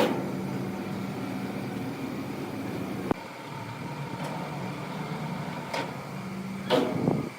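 Wood lathe running with a steady hum. The sound changes abruptly about three seconds in, and near the end there are two short, louder bursts of scraping noise.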